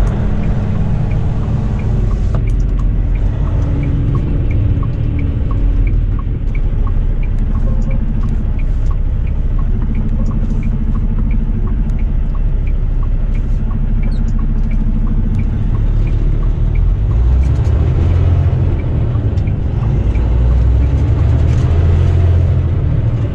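Semi-truck running down the road: a steady engine and road rumble. A light regular ticking, about two a second, runs through the first two-thirds and then fades.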